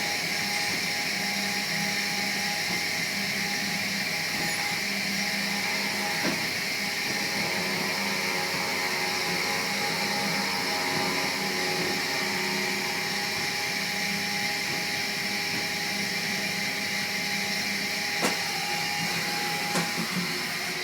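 A motor running steadily with a high whine, with a few brief clicks near the end.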